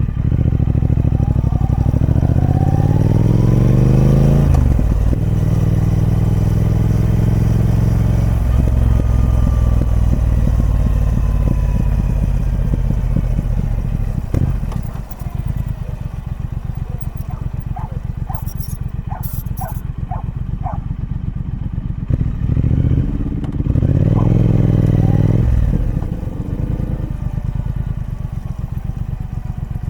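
Triumph Speed Twin 1200's parallel-twin engine through its stock exhaust, rising in revs over the first few seconds and again about two-thirds of the way through, and otherwise running at a steady pitch.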